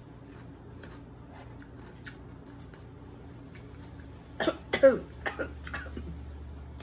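A woman coughs, a short cluster of coughs about four and a half seconds in, after a few seconds of faint small clicks.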